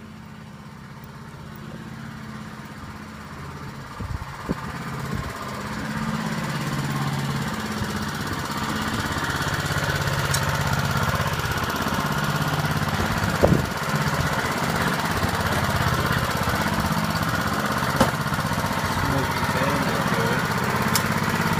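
Honda walk-behind lawn mower's small single-cylinder engine running steadily, growing louder over the first several seconds. A few sharp clicks or knocks sound over it.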